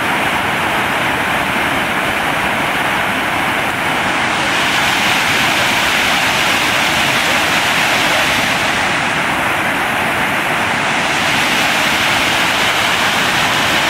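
Shipot waterfall, a mountain cascade, sending water rushing down over rocks: a loud, steady rush that grows a little brighter and louder about four seconds in.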